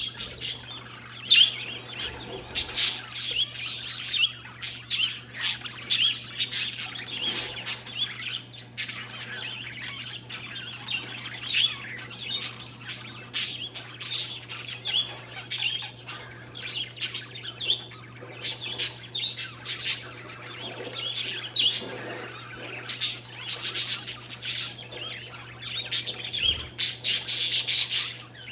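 Pet parakeets and zebra finches chirping and squawking together: a dense, continuous stream of short, overlapping calls from several birds, over a steady low hum.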